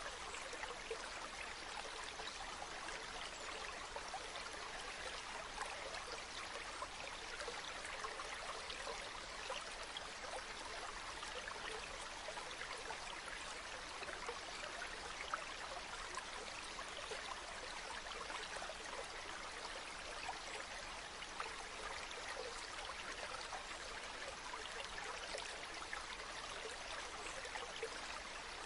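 River water flowing over stones: a steady, even rush with fine bubbling and splashing, unchanging throughout.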